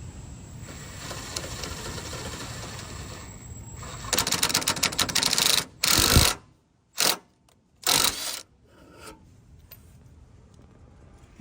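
An impact driver hammers in bursts, turning the bolt of a pipe expander to spread a dented exhaust tip back out. A long run of rapid impacts starts about four seconds in, followed by three shorter bursts. Before that there is a steady low rumble.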